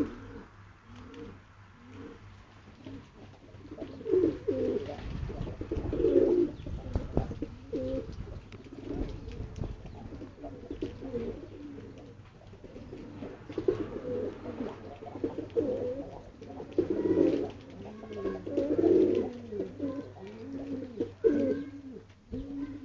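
Several domestic pigeons cooing together, overlapping rounded coos that repeat throughout, over a steady low hum.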